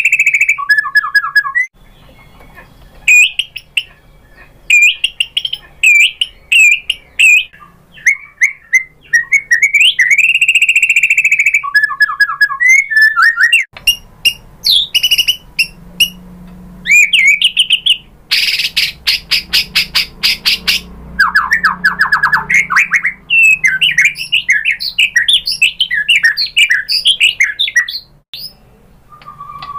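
White-rumped shama singing: loud, varied whistled phrases broken by pauses, with a long slurred whistle about a third in, a fast harsh rattle past the middle, and a run of quick chattering notes near the end.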